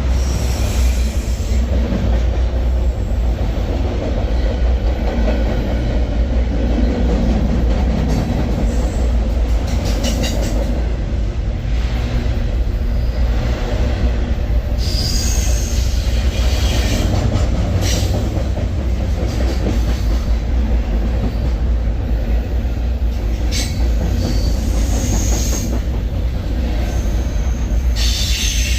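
Freight train rolling with a steady low rumble, its wheels squealing briefly several times in the second half.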